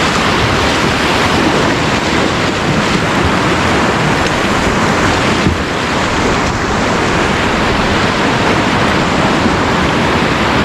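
Steady rush of river water around a rafting boat.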